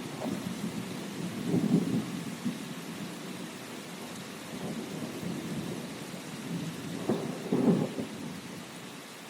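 Steady rain with thunder rumbling, swelling louder twice, near the start and again toward the end.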